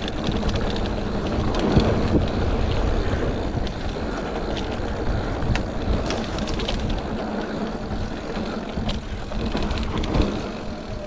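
Mountain bike riding downhill on a wet dirt trail: continuous rumble of wind and tyres, with frequent rattling clicks and knocks from the bike over bumps.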